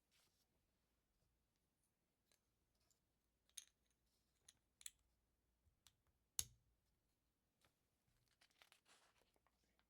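LEGO bricks being handled and snapped together: a handful of sharp, separate clicks, the loudest a little past the middle, then a soft rustle of pieces near the end.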